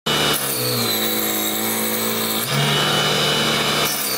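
Small homemade table saw driven by a DC 775 motor, running with a steady motor hum whose pitch drops just after the start, as under load. The sound changes abruptly about halfway through and again near the end.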